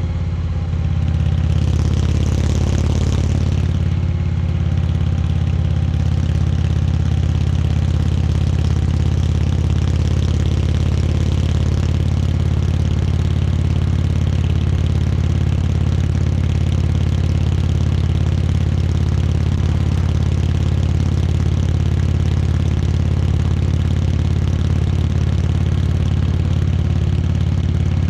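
Indian Chieftain Dark Horse V-twin engine running at a steady pitch, with a slight change in its note in the first few seconds.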